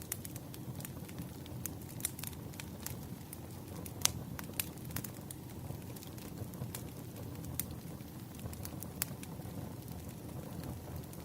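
Wood fire crackling: irregular sharp pops and snaps over a steady low rumble of burning logs, with one louder pop about four seconds in.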